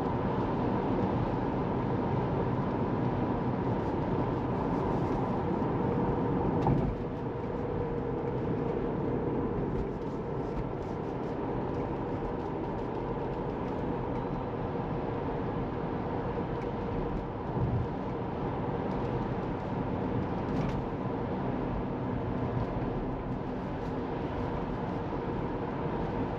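Tesla Model 3 driving along, a steady hum of tyre and road noise with a faint steady tone and no engine sound. There is a brief knock about seven seconds in, after which it is a little quieter.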